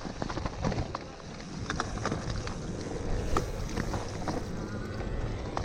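Gravel bike riding on a gravel road: wind buffeting the microphone over steady tyre noise, with many scattered sharp clicks and rattles from stones and the bike.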